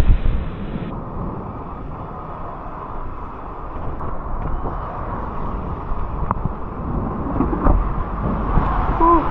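Steady low rumble of wind and road noise while travelling through a snowstorm, with a few faint clicks and a brief gliding tone near the end.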